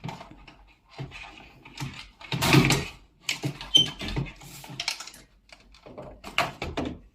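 Irregular clicks, knocks and rattles of plastic and metal parts being handled while the control board of an old front-loading washing machine is taken out, with the loudest clatter about two and a half seconds in.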